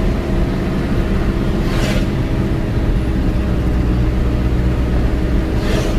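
Loaded truck's diesel engine running steadily under load on an uphill road, with a brief hiss about two seconds in and another near the end.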